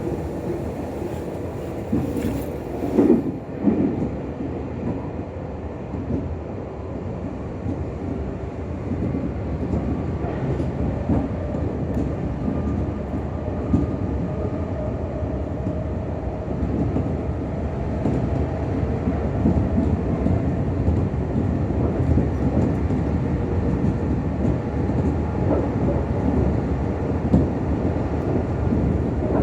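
Meitetsu 6000 series commuter train running, heard from inside the car: a steady rumble of wheels on rail with a few louder knocks two to three seconds in, slowly getting louder.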